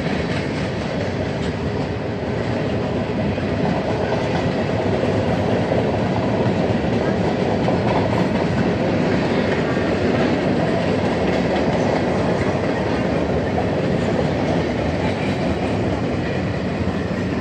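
Freight train cars rolling past at steady speed, with a continuous sound of steel wheels running on the rails.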